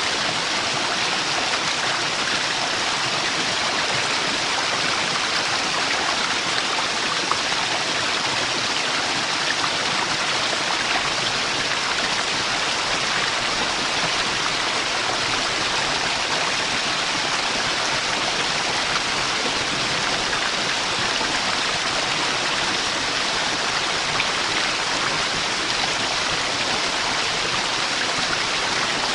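Waterfall: falling water making a steady, unbroken rush with no change in level.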